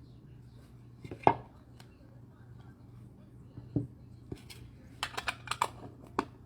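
Trading-card box and cards being handled on a tabletop, giving sharp taps and clicks. There is one tap about a second in, another near four seconds, and then a quick run of clicks near the end.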